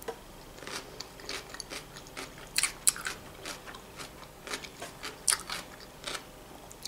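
A person chewing a mouthful of macaroni and vegetable salad close to the microphone, with many small, irregular mouth clicks.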